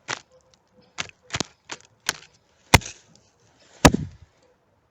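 Dry pine twigs snapping as they are broken off: about seven sharp cracks at uneven intervals, the two loudest near the middle and about four seconds in.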